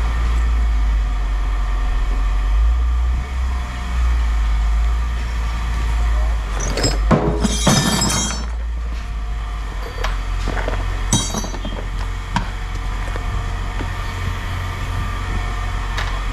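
Pieces of scrap metal clanking and ringing as they are tossed into a bin: a loud clatter about seven seconds in and a shorter clink about eleven seconds in, over a steady low hum.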